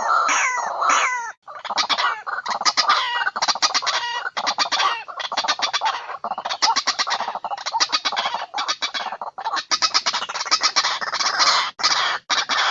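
White-breasted waterhen calls played as a lure: loud, harsh notes repeated rapidly in long runs, with a brief break about a second and a half in.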